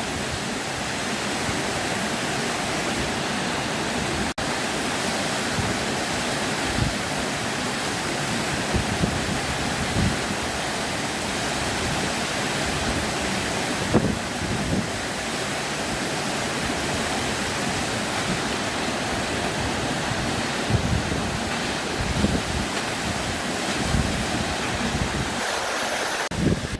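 Waterfall: a steady, even rush of falling water, with occasional low thumps of wind on the microphone.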